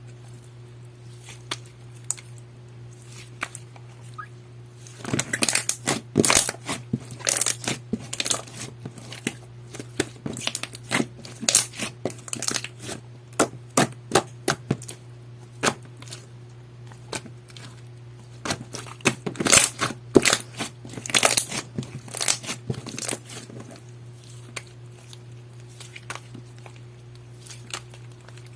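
Clear slime being squeezed, pressed and stretched by hand, giving irregular sharp clicks and crackles that come in busy spells with quieter gaps between.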